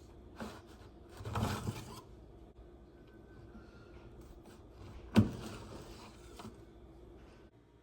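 Handling noises in a small enclosed space: a short rustling scrape about a second in, then a single sharp knock about five seconds in, with small taps around it.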